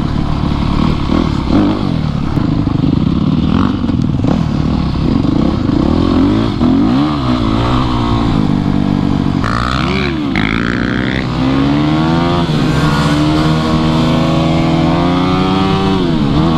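Dirt bike engine running under way, its pitch climbing and dropping again and again with throttle and gear changes. A burst of hiss comes in about ten seconds in.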